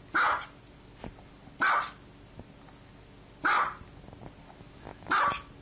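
Small white dog barking four times, single short barks about a second and a half apart.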